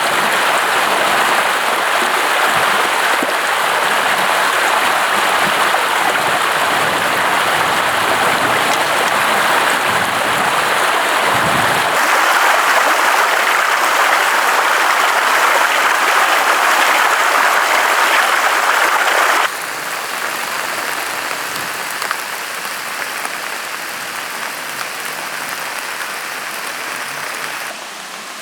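Heavy rain falling in a steady, dense hiss. It suddenly becomes quieter about two-thirds of the way through, and quieter again near the end.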